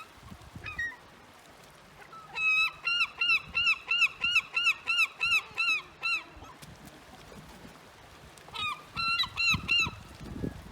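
Seagulls calling: a long run of quick repeated calls, about three or four a second, lasting some four seconds, then a shorter run of about five calls near the end.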